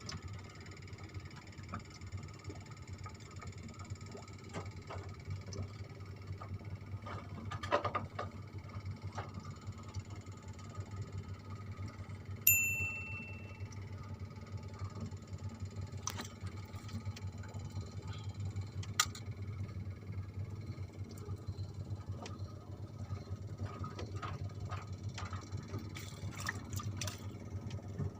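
Steady low hum under faint high, steady chirring, with scattered light knocks and one bright metallic ding about halfway through that rings out for about a second.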